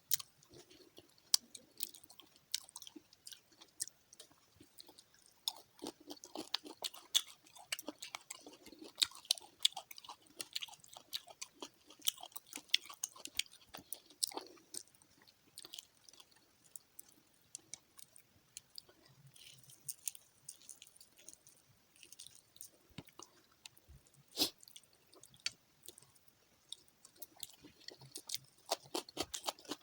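A person chewing and biting fried fish close to the microphone: many irregular, sharp mouth clicks and small crunches.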